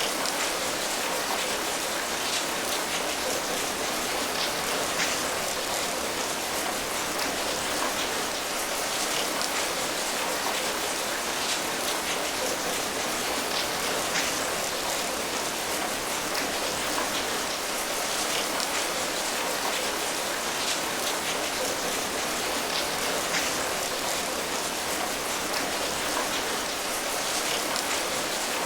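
Steady rain falling, a continuous even patter with many individual drops striking a surface.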